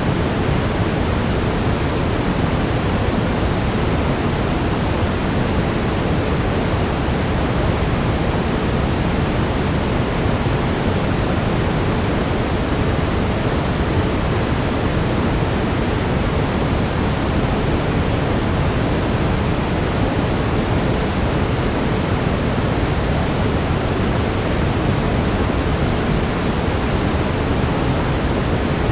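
Steady synthetic brown noise, an even rushing hiss weighted toward the lows that never changes, with a faint steady tone under it.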